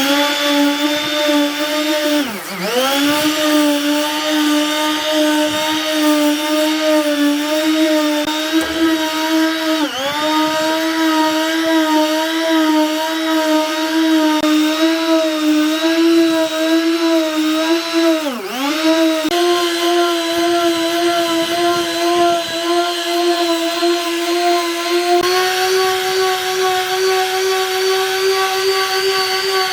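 Electric power tool motor running at high speed with a steady whine. The pitch sags and recovers three times as the tool is loaded, then steps up slightly twice later on.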